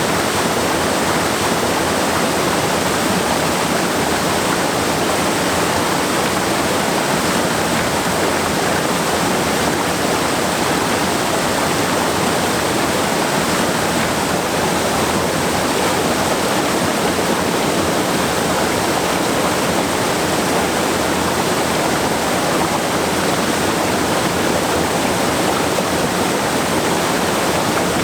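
Steady, loud rush of a stream cascading over rocks at a waterfall, an even wash of water noise with no breaks.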